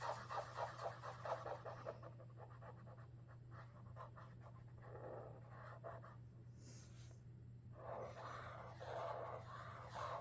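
Sharpie Creative Marker tip scratching across paper in quick, repeated drawing strokes. The strokes are busy at first, lighter for a few seconds, pause around six to eight seconds in, then pick up again.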